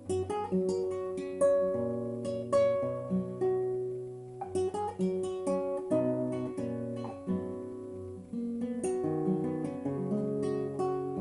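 Solo acoustic guitar playing a slow ballad, plucked and strummed chords ringing out one after another.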